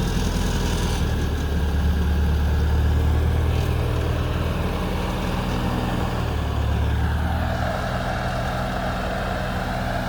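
Tractor engine running steadily with a low drone; the drone drops in level about three-quarters of the way through.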